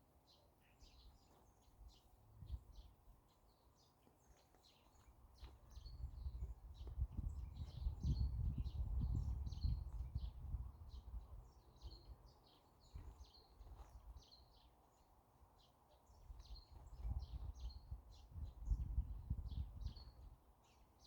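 Small birds chirping over and over, short high calls every second or so. Two longer stretches of low rumbling noise, about a third of the way in and again near the end, are louder than the birds.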